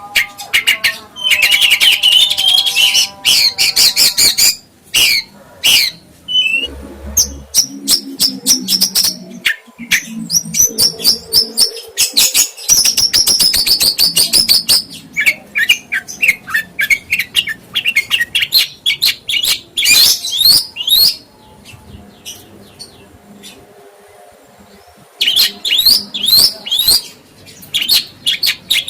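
A songbird singing a fast, varied song of high chirps, quick sweeping notes and sharp clicks, with a lull of a few seconds a little past two-thirds of the way through before it resumes.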